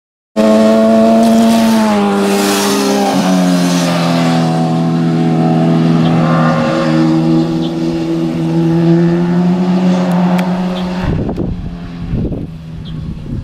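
Sport motorcycle engine at high revs, its pitch falling in a couple of steps over the first few seconds as it slows, then holding a steady note. Two short low rumbles come near the end.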